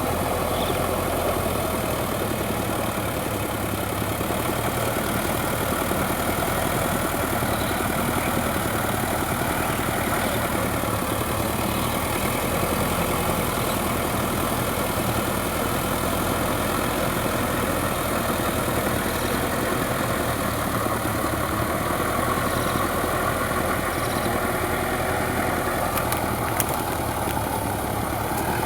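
Sonalika DI 750 tractor's diesel engine running steadily at an even speed.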